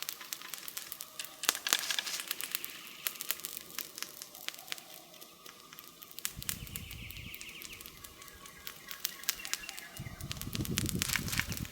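Wood campfire crackling, with frequent sharp pops and snaps that come in a dense flurry about two seconds in and again near the end. Two brief low rumbles come, one about six seconds in and one near the end.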